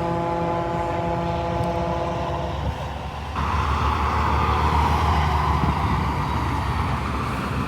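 A truck horn holding one long steady chord for about two and a half seconds, over low engine rumble. About three seconds in it gives way to a louder rushing noise with heavy engine rumble as a truck passes.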